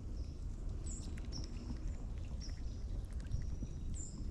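A bird chirping outdoors: short, high whistled notes repeated several times, over a low steady rumble.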